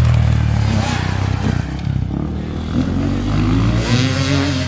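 Enduro motorcycle engine running loudly, its pitch rising and falling as the throttle is worked.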